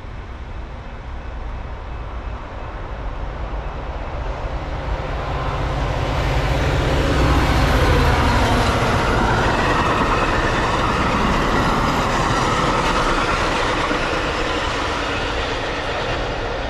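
Diesel-hauled Metra commuter train passing on the BNSF line. The low rumble builds to its loudest about eight seconds in, then gives way to a steady rush of wheels and cars on the rails that slowly fades.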